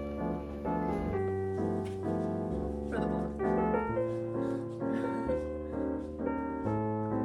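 Background music: a piano playing a flowing melody over bass notes that change every second or so.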